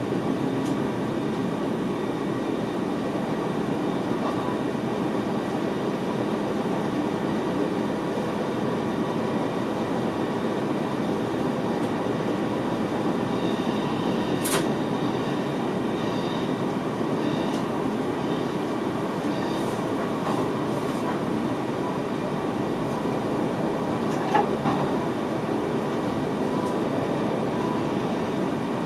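Steady running noise heard inside the driver's cab of an NS VIRM double-deck electric train under way, with faint steady tones over the rumble. A sharp click comes about halfway through, and a smaller one near the end.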